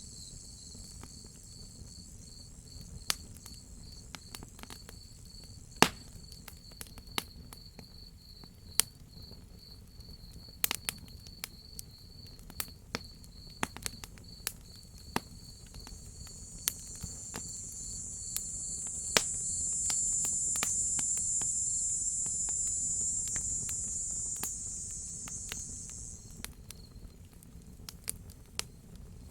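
Crickets chirping steadily, with the sharp pops and crackles of a wood fire scattered throughout. A higher cicada buzz swells up about halfway through and fades away again a few seconds before the end.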